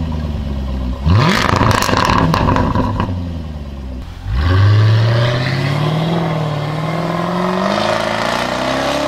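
Jaguar F-Type SVR's 5-litre supercharged V8 blipped once at standstill about a second in, crackling from the exhaust as the revs fall. About four seconds in it pulls away hard, its engine note climbing steadily as it accelerates.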